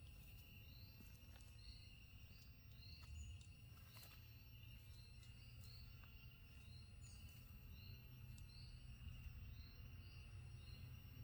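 Faint tropical forest ambience: a steady high insect drone, with a bird repeating a short high call about once or twice a second and a low rumble underneath.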